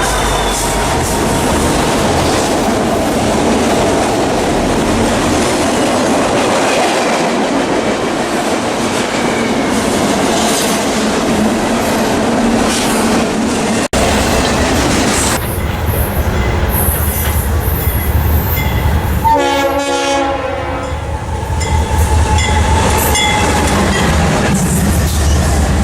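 Freight train rolling past, a steady clatter and rumble of railcars on the track. After a break about halfway through, a diesel locomotive's air horn sounds one short blast over the low rumble of its engines, and the train keeps rolling by.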